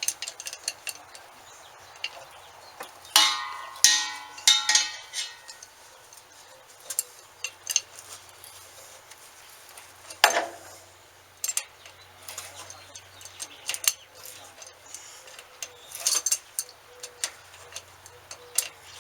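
Metal plumbing fittings and tools clinking and tapping as they are handled, with a brief ringing clatter about three to five seconds in and a sharp knock about ten seconds in.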